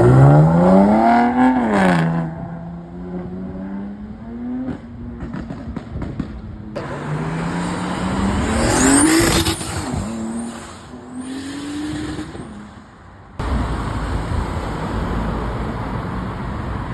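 Car engines revving and accelerating away, the pitch climbing hard and then dropping back as the driver changes gear or lifts off. This happens twice: once at the start and again about eight seconds in. Near the end the sound cuts abruptly to a steady, noisy rumble.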